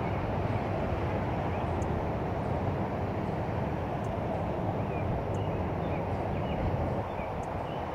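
Steady wash of traffic noise from a nearby highway, with faint bird chirps scattered through it.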